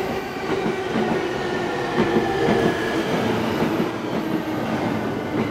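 E231 series 1000 electric commuter train rolling slowly alongside the platform as it pulls in, wheels knocking over rail joints, with a steady whine running under the rumble.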